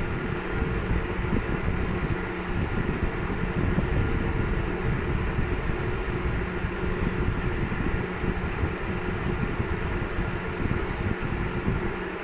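Electric motor rig running steadily: a continuous mechanical hum with a few steady tones over a rough, rattly low rumble.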